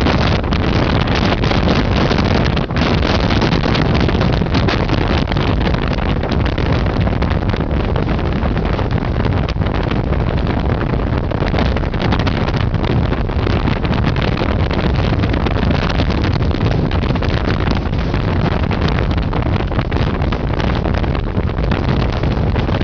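Gale-force storm wind buffeting the microphone: a loud, steady rumbling rush that hardly lets up.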